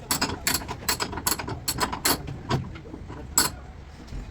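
Irregular metallic clicks and knocks from hand-tool work on a car, several a second.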